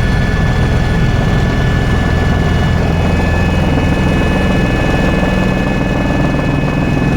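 Tour helicopter's engine and rotor running steadily: a loud, constant low drone with a few steady high-pitched whines above it.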